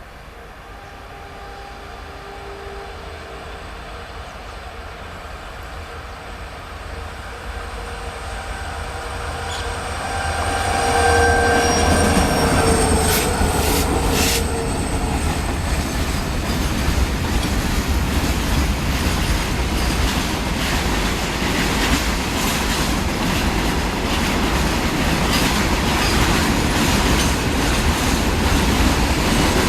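Express train approaching and passing at speed. It grows steadily louder over the first ten seconds or so, then the coaches run by loud and steady with repeated clicking from the wheels over the rail joints.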